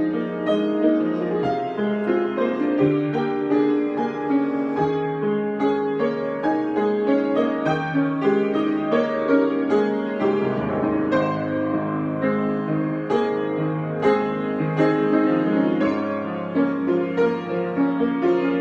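Solo piano improvising: a steady run of notes and chords in the middle register, with a deep bass note entering about ten seconds in.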